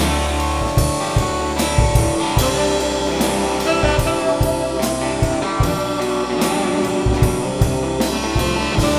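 Live rock band playing an instrumental intro: electric guitars, bass and a drum kit keeping a steady beat, with brass or saxophone-like sustained notes.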